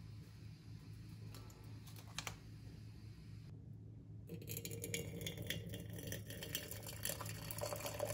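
Quick light clicking and tapping, with a brief silent gap about three and a half seconds in, after which the clicks come thicker.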